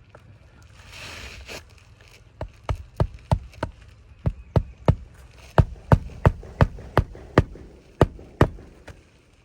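Hand hammer driving roofing nails through an asphalt shingle into the roof deck: a run of sharp strikes, about three a second, after a brief rustle about a second in.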